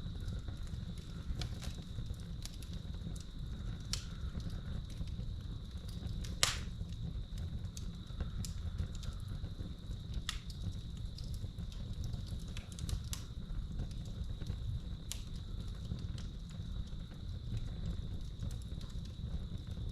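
Real wood fire crackling in a fireplace, with scattered sharp pops over a low rumble; the loudest pop comes about six and a half seconds in. Crickets trill steadily behind it as one unbroken high note.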